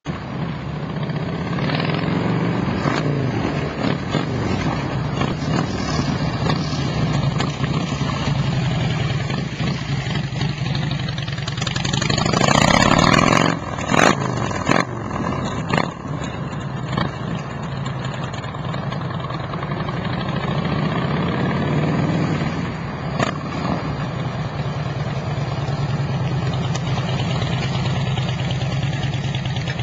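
2007 Harley-Davidson Street Glide's 96 cubic inch V-twin running through a Samson fishtail exhaust, idling with several throttle blips, the biggest rev about twelve seconds in. A few sharp knocks follow a couple of seconds later.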